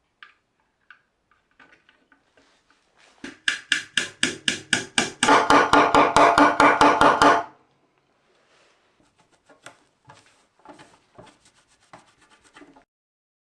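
A Simson Schwalbe KR51/2's 50 cc two-stroke single-cylinder engine firing in a rapid, even pulse, about five or six beats a second, for about four seconds, growing louder before it stops suddenly. Small clicks and knocks before and after it.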